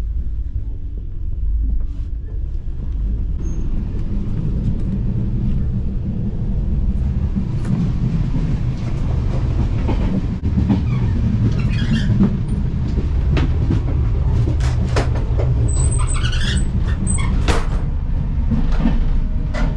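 Indian Railways AC sleeper coach running at speed: a steady low rumble from the carriage, with frequent rattles and clacks that grow busier about seven seconds in, near the end of the coach.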